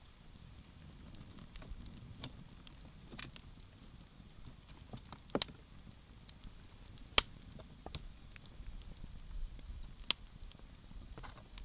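Wood campfire crackling, with irregular small ticks and a few sharp, loud pops.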